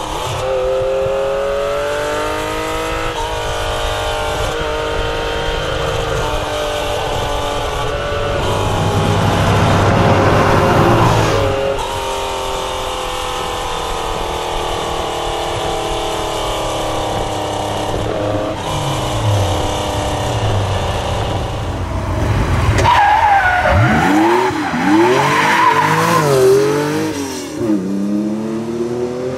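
Air-cooled flat-six engine of a 1970 Porsche 911 RSR being driven hard, its pitch climbing and then dropping again several times as it works through the gears. Near the end the revs swing up and down in a run of quick swoops.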